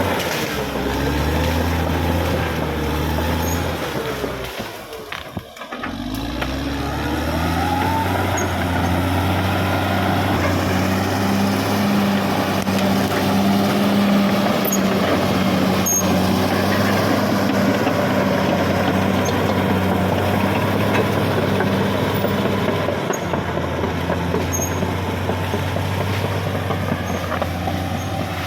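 Caterpillar D6R XL bulldozer's diesel engine running steadily. The sound dips briefly about five seconds in, then picks back up.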